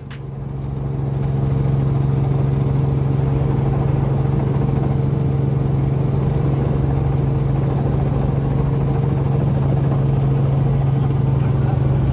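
Helicopter running: a loud, steady engine and rotor drone that fades up over the first couple of seconds and then holds even.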